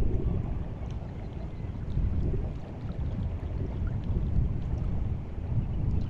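Incoming tide water of the White Sea lapping and sloshing at the shore: a low rumbling wash that swells and eases every second or two, with faint small splashes.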